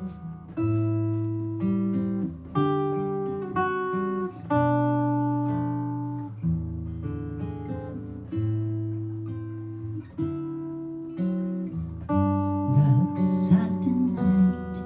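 Solo guitar playing a slow jazz-ballad introduction: chords struck about every one to two seconds and left to ring out, with a few single-note fills between them.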